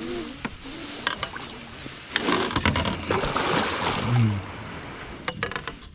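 Hooked muskie splashing and thrashing at the side of a jon boat as it is brought into the net, heaviest in the middle, with sharp clicks and knocks of gear against the boat.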